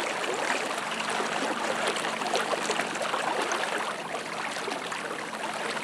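Fast-flowing floodwater of a river running steadily, an even rushing hiss flecked with small splashes and gurgles.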